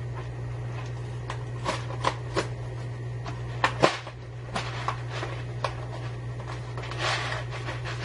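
A few light clicks and knocks as things are handled in a kitchen, the loudest a little before halfway, over a steady low hum.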